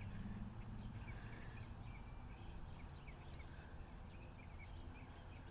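Birds chirping faintly: many short, scattered chirps over a low, steady background rumble.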